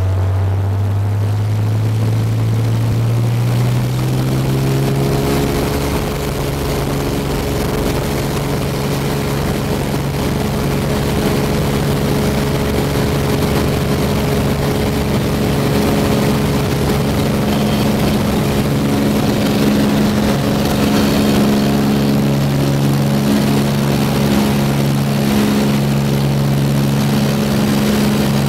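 Light propeller aircraft taking off: the engine and propeller power up, the note rising over the first four seconds, then hold a steady full-power drone through the takeoff run.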